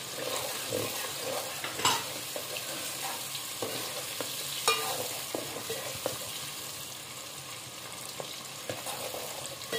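Sliced onions and whole spices sizzling in hot ghee in a metal pot, stirred with a steel ladle that scrapes and clinks against the pot, with the sharpest clinks about two seconds in and again near the middle.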